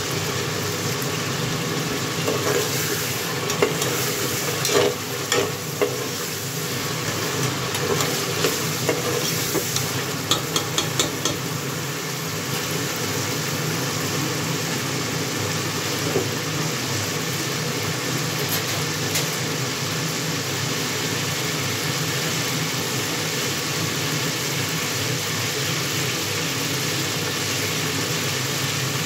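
Chicken and masala sizzling in hot oil in an aluminium pot, a steady frying hiss throughout. For roughly the first dozen seconds a metal ladle clinks and scrapes against the pot in short taps as the curry is stirred, then only the sizzling goes on.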